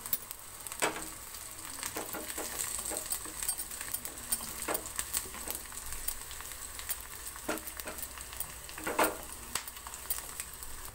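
Sliced onions and dried red chillies sizzling in hot oil in a nonstick kadai, stirred with a plastic spoon that scrapes and knocks against the pan now and then.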